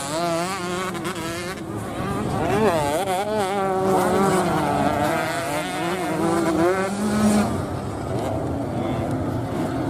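Several 125 cc two-stroke motocross bikes racing, their engines buzzing and revving up and down as the riders work the throttle and shift.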